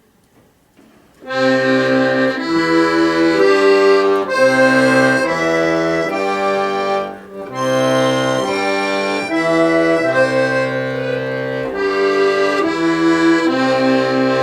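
Accordion playing a long arpeggio, note after note in steady succession over a sustained bass. It starts about a second in, with a brief dip in loudness about halfway through.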